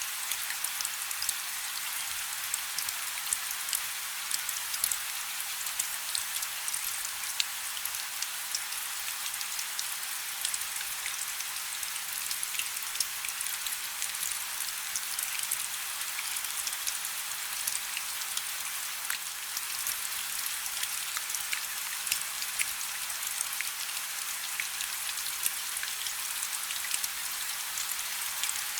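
Light rain falling steadily, a soft even hiss with many small drop ticks scattered through it.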